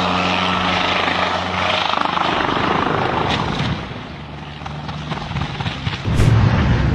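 Aircraft engine running with a steady droning hum. The hum fades about four seconds in, and a loud low rumble starts near the end.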